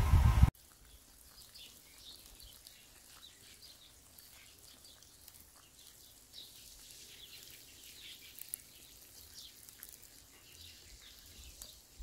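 Faint, scattered bird chirps over quiet outdoor rural ambience. A loud sound fills the first half second and then cuts off abruptly.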